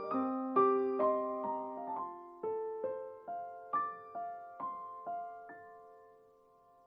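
Background music: a solo piano playing a slow melody of single struck notes, each ringing and decaying, that thins out and fades almost to silence about six seconds in.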